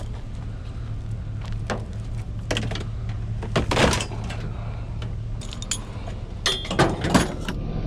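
Scrap metal clanking and rattling as it is handled: a string of sharp knocks, some with a short metallic ring. A steady low engine hum runs underneath.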